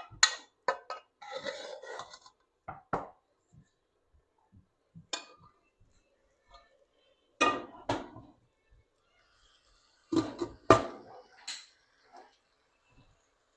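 Cooking pots and metal utensils clanking and knocking against each other in several short runs of knocks, the loudest about seven and ten seconds in.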